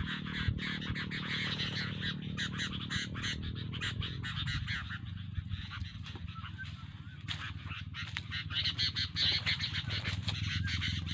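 Sooty-headed bulbuls calling in a dense, rapid chatter, over a low steady hum.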